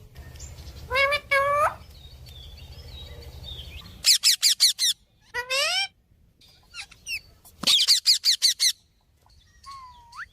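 A parrot calling: a pair of pitched calls about a second in, then two quick bursts of rapid repeated chirps near the middle and later on, and a call that sweeps upward at the end.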